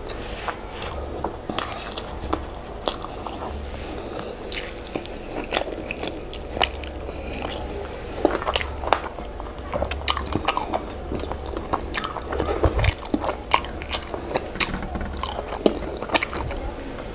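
Close-up eating sounds of a person chewing and biting boiled yam with owo stew: irregular mouth clicks and smacks, several a second, with no pauses.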